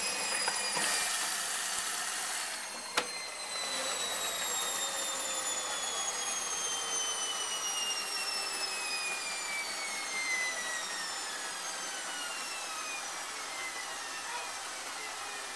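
A laundry appliance's motor winding down, its whine falling slowly and steadily in pitch, with a single sharp click about three seconds in.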